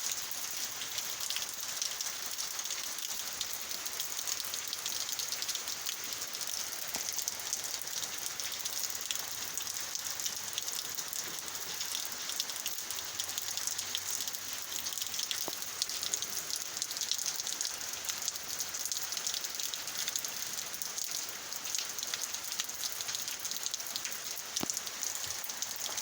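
Heavy rain falling steadily, a dense hiss of many drops hitting the ground and surfaces.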